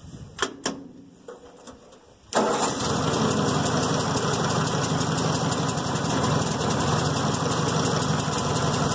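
Old Ford tractor engine starting after a couple of sharp clicks, catching abruptly about two seconds in and then idling steadily. It is running again on freshly gapped ignition points and a new distributor rotor button.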